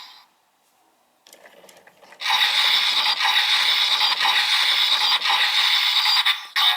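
Kamen Rider Gavv DX transformation-belt toy: faint plastic clicks as it is handled, then, about two seconds in, its small speaker plays tinny electronic sound effects and music for the finishing move.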